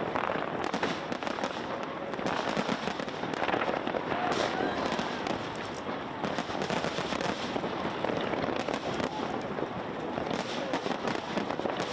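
Fireworks going off continuously, a dense run of crackling pops and bangs, over the murmur of a crowd.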